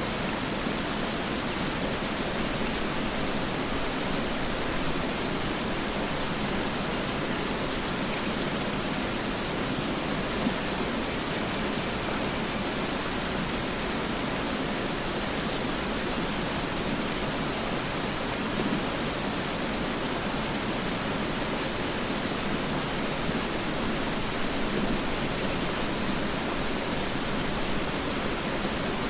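Mountain river rushing steadily over rocks: a constant, even roar of water.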